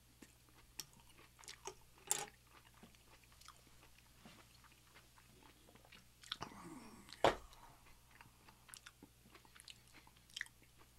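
Close-miked ASMR chewing of a mouthful of breakfast: scattered wet mouth clicks throughout, with a louder click about two seconds in and the loudest one about seven seconds in.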